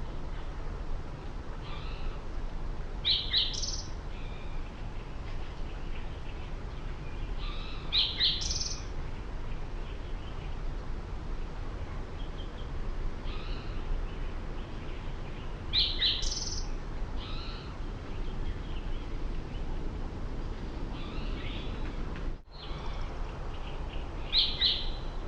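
Wild birds calling outdoors: short, high chirps every few seconds over a steady low background rumble. The sound cuts out briefly a little over 22 seconds in.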